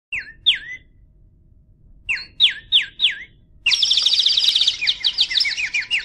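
Bird chirping: two sharp chirps that sweep down in pitch, a pause, four more about two seconds in, then a fast, dense run of twittering chirps from just before the four-second mark.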